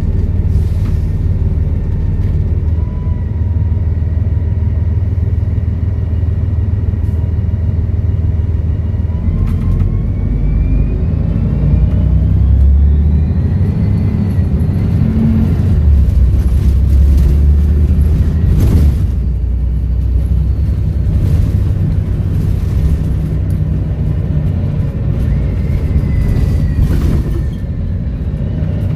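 Volvo B7RLE bus's six-cylinder diesel engine running with a heavy low rumble. About ten seconds in, a thin turbo whistle climbs steadily as the bus accelerates; another whistle falls away near the end. A few sharp knocks or rattles sound along the way, the loudest about two-thirds through.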